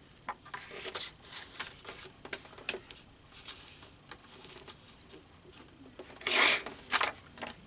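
Paper being handled and shuffled: a series of short scratchy rustles, the loudest a longer rustle about six and a half seconds in.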